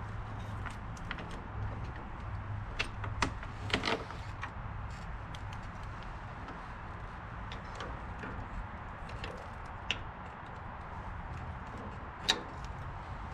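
Scattered sharp metallic clicks and clinks of hand tools and parts being handled during work on a tractor carburetor, over a steady low hum.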